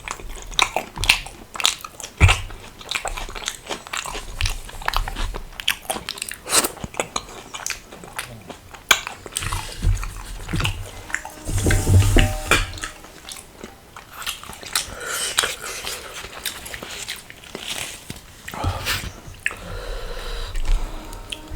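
Close-miked eating: a person biting and chewing food, with many irregular sharp clicks and crunches from the mouth.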